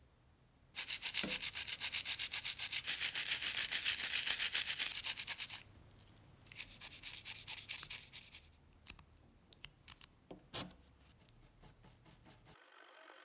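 Brisk hand rubbing with an abrasive, in quick back-and-forth strokes. A long bout starts about a second in and a shorter one follows past the middle, then scattered light clicks and taps.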